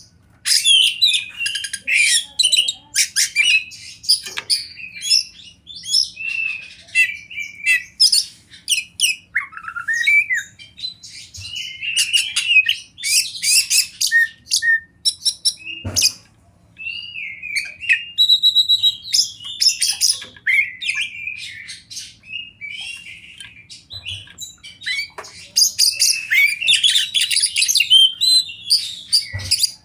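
Oriental magpie-robin singing a long, varied song of whistled glides and quick chirping notes, nearly without a break.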